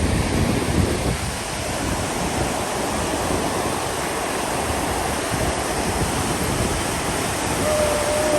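Steady rush of a fast-flowing mountain river running high below the bridge: an even, unbroken roar of water.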